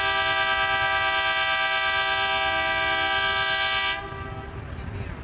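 Ferry's horn sounding one long, steady blast of several pitches together, cutting off sharply about four seconds in, over a low rumbling background.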